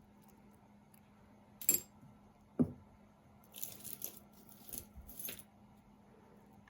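Costume jewelry clinking and jangling as pieces are handled and sorted: a sharp clink, a dull knock on the table just after, then a couple of seconds of chains and beads jangling.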